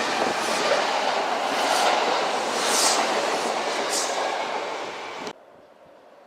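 Electric train passing close by, its wheels running loudly over the rails with three brief high-pitched screeches. The sound cuts off abruptly about five seconds in.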